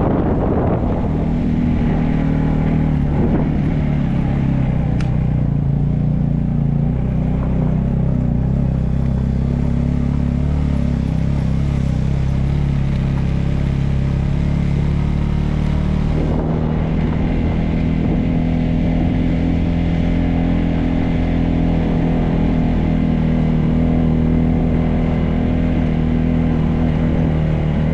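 Motorcycle engine running steadily while riding, its pitch shifting a little a few seconds in and again about halfway.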